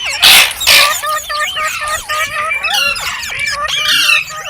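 Green parrots chirping in a quick run of short, up-and-down squeaky calls, with two loud harsh squawks near the start.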